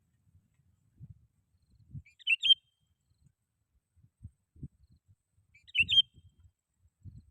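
Sooty-headed bulbul (kutilang) calling: two short, loud, chirpy phrases about three and a half seconds apart. Faint low rumbles and thumps sound in between.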